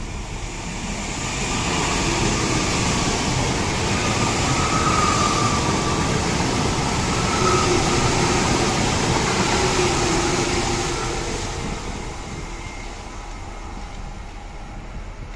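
Trenitalia Frecciarossa 1000 (ETR 400) electric high-speed train running through the station: the rolling and rushing noise swells as it draws level, holds while the cars go by with a faint whine over it, then fades as it moves away.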